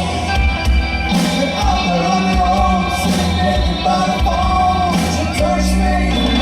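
Live band music with a singer: a wavering vocal line over steady bass, with cymbal crashes every couple of seconds.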